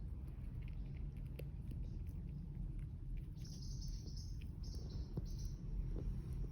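Forpus parrotlet giving three short, high, buzzy chirps a little past halfway, over a steady low rumble with scattered small clicks.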